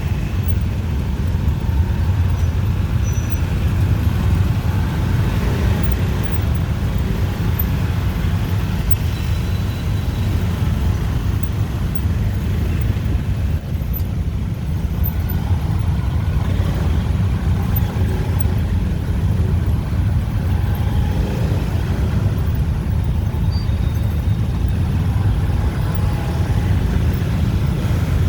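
Dense city rush-hour traffic: a steady, unbroken din of motorbike and car engines passing on the street.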